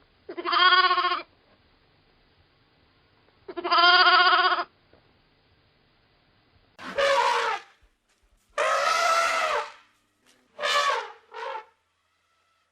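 Farm animal bleating: two drawn-out calls about three seconds apart. Then four more calls from a different recording, two long ones followed by two short ones near the end.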